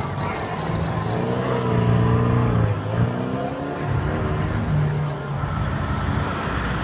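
A car engine running and revving, its pitch sliding down and back up around the middle, then a short steady drone a little later.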